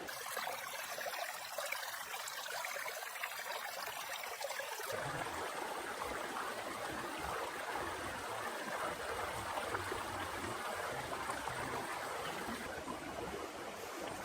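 Heavy rain falling steadily, an even hiss of water. The sound becomes fuller and lower about five seconds in.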